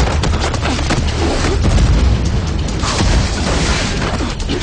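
TV action-scene sound effects: loud booms and crashing impacts over a dramatic music score.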